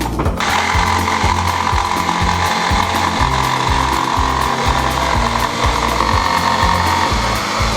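Jigsaw cutting plywood, starting about half a second in and running steadily, with a strong buzzing whine, over background music.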